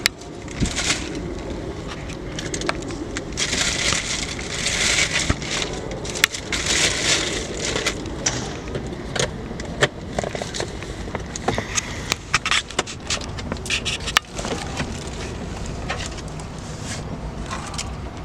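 Rummaging through a car's interior: rustling and crinkling of handled items, with scattered clicks and knocks, over a steady low rumble.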